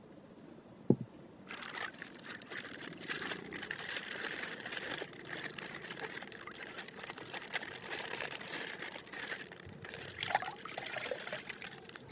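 A single knock about a second in, then plastic packaging crinkling and crackling continuously as a toy packet is handled and torn open.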